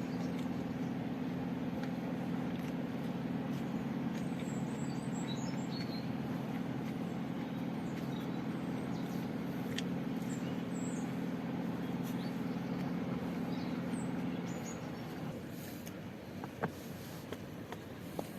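Steady low engine drone that fades out about fifteen seconds in, with small birds chirping now and then and one sharp click near the end.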